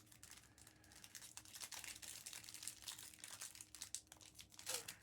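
Foil wrappers of Topps Chrome trading card packs being torn open and crinkled by hand: a faint, continuous rustle of small crackles and tears that grows busier after the first second or so.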